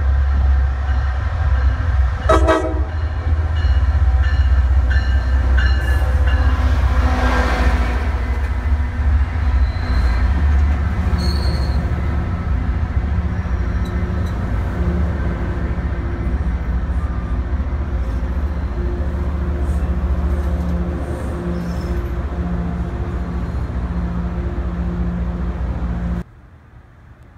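MBTA diesel commuter train pulling in and passing at close range: a deep, loud engine rumble, with the horn sounding over the first several seconds, then the bilevel coaches rolling by. The sound cuts off abruptly near the end.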